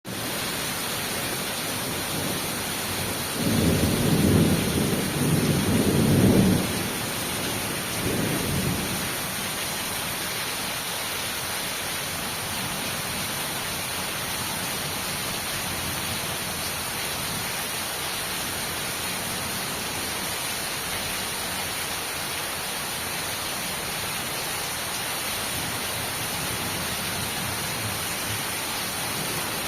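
Steady rain falling in a thunderstorm, with a loud rumble of thunder starting about three and a half seconds in and lasting about three seconds, then a shorter, weaker rumble around eight seconds in.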